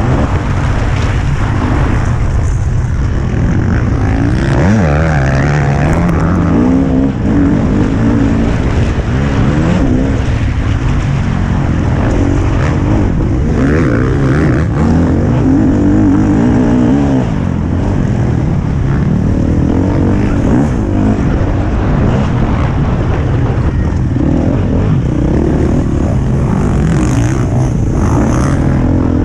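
Motocross bike engine revving hard, its pitch rising and falling again and again as the rider accelerates and backs off over a dirt track, heard close up from a helmet-mounted camera.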